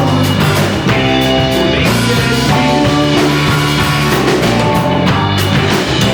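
Rock band playing live: sustained electric guitar notes over bass and drum kit, loud and steady.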